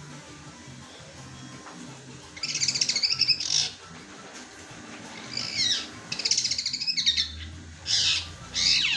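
Long-tailed shrike singing in about five short bursts of rapid, chattering high chirps, mimicking the fighting calls of Eurasian tree sparrows. The owner judges its song below its best for lack of extra feeding and sunning.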